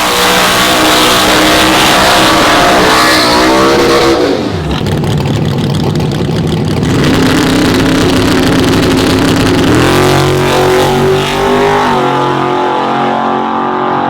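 Drag-race truck engines running loud. One is held at high revs, then falls away about four seconds in. An engine then runs steadier and lower, rises in pitch near ten seconds and drops off again near twelve.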